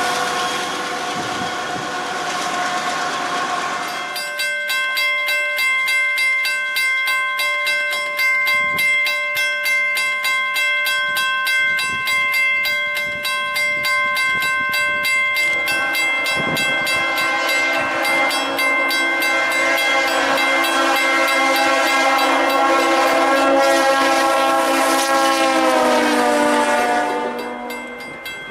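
For the first few seconds a freight locomotive and its loaded coal cars pass close by, rumbling over the rails. After that, a railroad warning bell rings steadily with rapid regular strikes. About halfway through, a train horn joins in with a long blast that sags in pitch and cuts off near the end.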